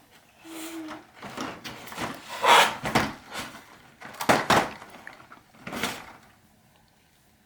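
A string of irregular knocks, bumps and rustles from small objects being handled, the loudest about two and a half and four and a half seconds in, stopping about a second before the end.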